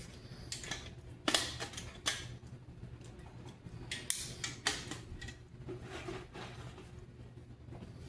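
Irregular metal clicks and knocks of steel armour parts and tools being handled during riveting, with a few sharper knocks among them over a steady low hum.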